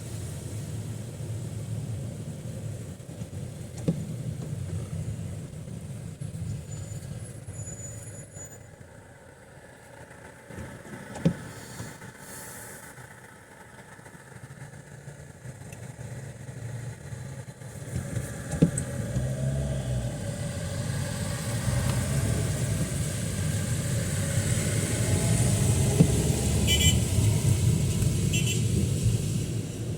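Car traffic on a rain-wet street: vehicles driving past with a steady low rumble, one growing louder through the second half, and a few sharp knocks.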